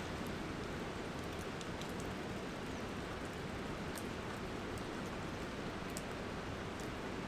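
Light rain falling: a steady hiss with scattered sharp ticks of drops landing close by.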